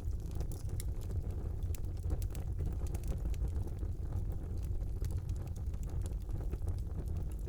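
Fire burning in a fireplace: a steady low rumble of flames with frequent small crackles and pops scattered throughout.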